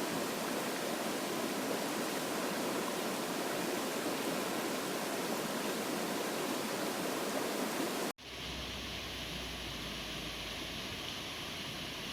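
Mountain stream water rushing steadily. About eight seconds in, it cuts off abruptly and gives way to a quieter, different steady background with a low hum.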